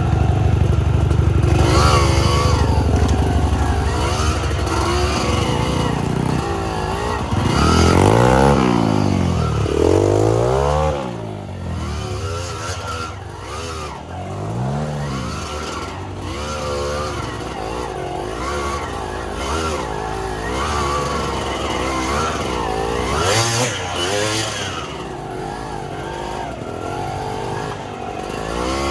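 Suzuki TS125X two-stroke trail bike riding off-road. The engine runs hard at first, then the revs rise and fall in several swoops as the throttle is worked, before it settles lower and uneven for the rest of the ride.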